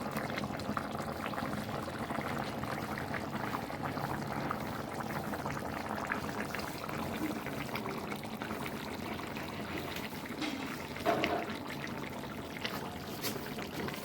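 Water pouring and trickling steadily, with small clicks throughout and a brief louder splash about eleven seconds in.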